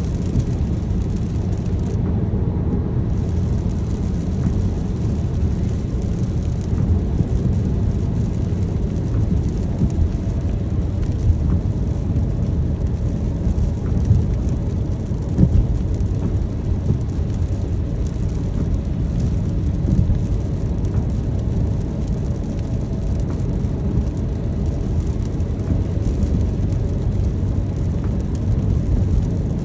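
Steady low road and engine rumble inside a moving car, with rain falling on the car.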